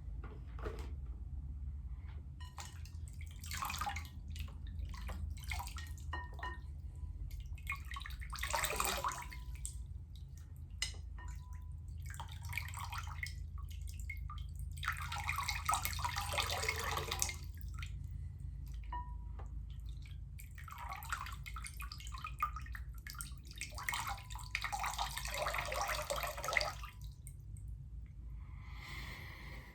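Water being splashed and poured by hand in about six bursts of a second or two, several seconds apart, with single drips in between. A steady low hum runs underneath.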